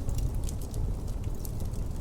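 Wood fire crackling in a fireplace: scattered small sharp snaps over a steady low rumble.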